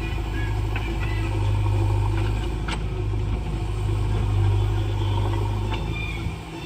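JCB backhoe loader's diesel engine running steadily under load, with a few sharp knocks, the loudest about three seconds in. The engine note eases off near the end.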